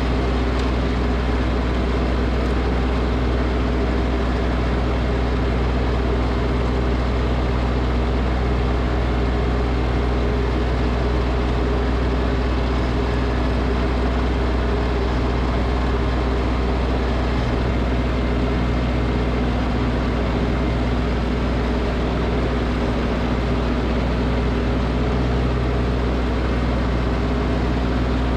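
Snowblower's small engine running at a steady speed, with a constant low drone.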